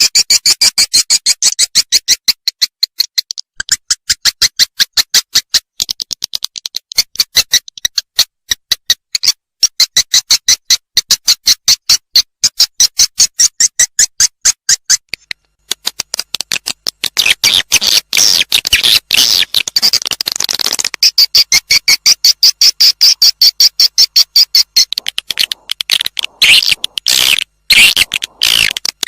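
Swiftlet lure-call recording: rapid trains of sharp chirps, several a second, with stretches of denser twittering. It is the call played from swiftlet houses to draw swiftlets in to roost and nest.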